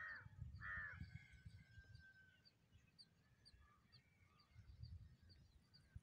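A bird gives two harsh calls right at the start, the second trailing off into a thin held note. Faint high chirps repeat several times a second throughout over a low, patchy rumble.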